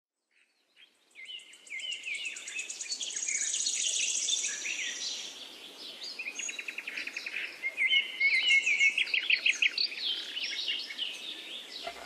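Several songbirds singing at once, a mix of chirps and rapid trills over a faint hiss, starting about a second in.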